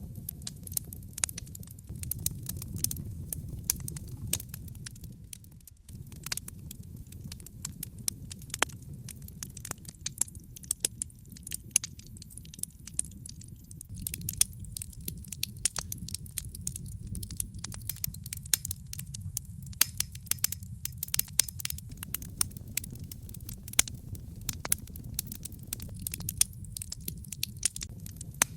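Log fire burning in a fireplace, with frequent sharp pops and snaps from the burning wood over a steady low rumble of the flames.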